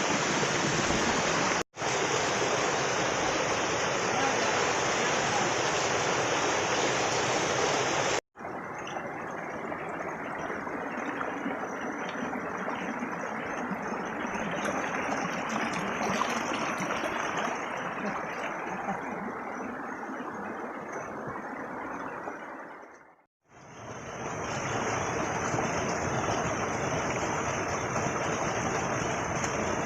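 Steady rush of falling and flowing water from a waterfall, in several clips broken by short dropouts about two, eight and twenty-three seconds in.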